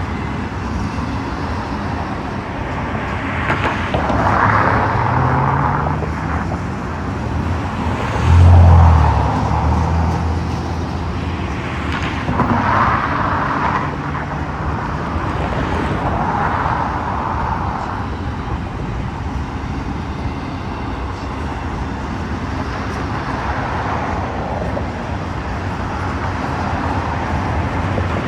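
Steady outdoor vehicle noise, with something passing and swelling every few seconds and a short, loud low rumble about eight seconds in.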